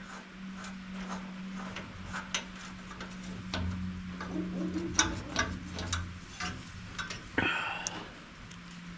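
Irregular light clicks and taps of hand tools and bolts as bolts are threaded into a round baler's frame by hand, not yet tightened, over a steady low hum. About seven and a half seconds in there is one louder, brief scrape.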